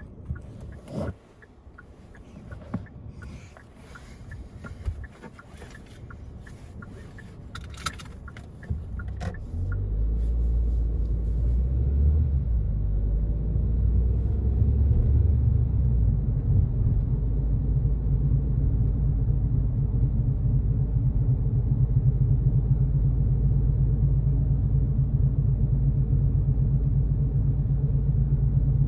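Car's low humming drone and rumble, coming in about ten seconds in, growing over a few seconds and then holding steady, with faint scattered clicks before it. The hum started after the anti-roll bar bushes were replaced, and the owner questions whether it is the wheel bearings.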